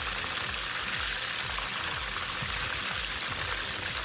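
Chicken wings frying in about an inch of cooking oil in a fry pan, making a steady, even sizzle.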